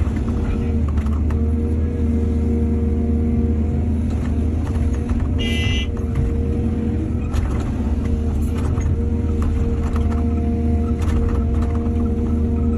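Heavy diesel engine of earthmoving machinery, an excavator at work loading a truck, running steadily with scattered knocks. A brief high squeal comes about halfway through.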